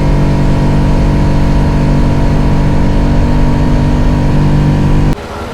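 Honda Dax 125's single-cylinder engine running steadily at a constant pitch while riding. It cuts off abruptly about five seconds in, giving way to quieter traffic noise.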